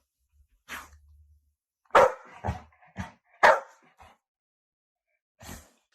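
A dog barking: about six short barks, the loudest about two and three and a half seconds in.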